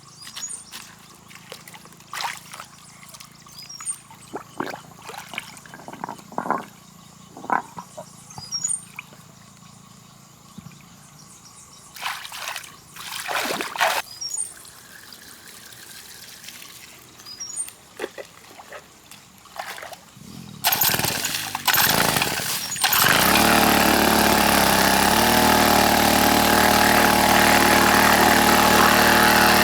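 Water splashing and trickling in scattered bursts. About three-quarters of the way through, after a few loud noisy bursts, a small engine starts and runs loud and steady.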